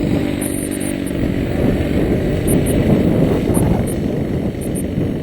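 Strong wind buffeting the microphone, a loud, gusty low rumble.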